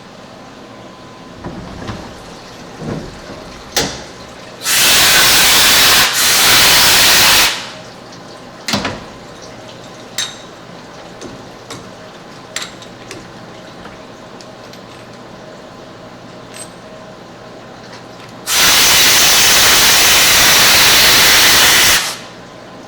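Compressed-air blow gun hissing in two long blasts of about three seconds each, with sharp clicks and knocks of metal parts being handled in between.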